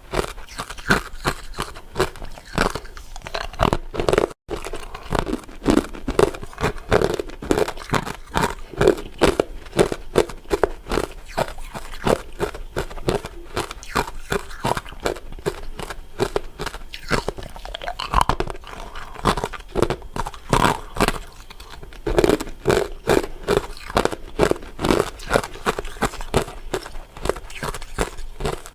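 Close, loud crunching and chewing of crisp crystal ice dessert pieces: a dense, continuous run of sharp crunches, several a second, with a split-second break about four seconds in.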